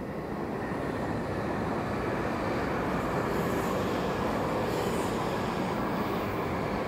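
Shinkansen bullet train running past on an elevated track: a steady rushing rumble with a hiss of air on top that builds over the first seconds and eases near the end.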